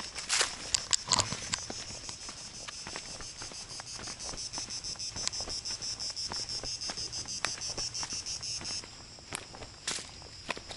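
Outdoor insects chirring in a high, fast-pulsing chorus that cuts off suddenly near the end, with a few sharp clicks or knocks near the start and scattered light steps throughout.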